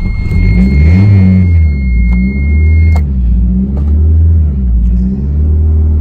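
Toyota MR2 engine catching just after being cranked, then revved up and down three times before settling to a steady idle about five seconds in. A steady high tone sounds alongside it until about three seconds in.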